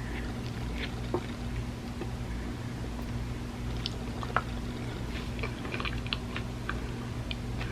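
Close-miked chewing: scattered soft clicks and small crunches from a mouthful of food, over a steady low hum.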